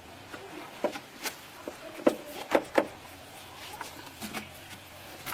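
A handful of sharp clicks and knocks, like hard objects being handled, the loudest three coming close together about two to three seconds in.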